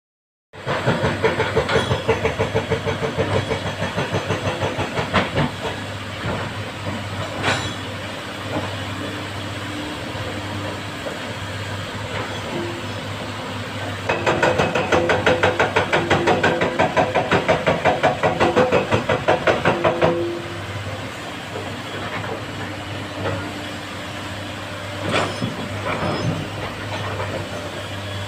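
Komatsu excavators' diesel engines working under load, with a steady low hum and a rapid even throb that comes up loud at the start and again for about six seconds in the middle. A few sharp knocks ring out over it.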